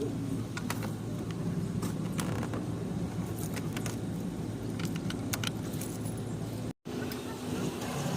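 Motorcycle engine running steadily while riding, with road and wind noise and scattered sharp clicks and rattles. The sound cuts out completely for a moment near the end.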